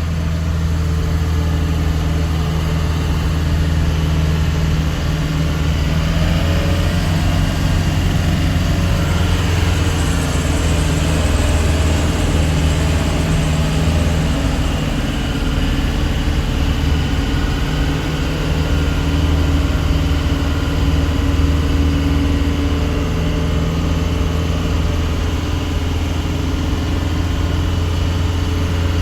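A truck's diesel engine running steadily at low, even revs with a constant hum.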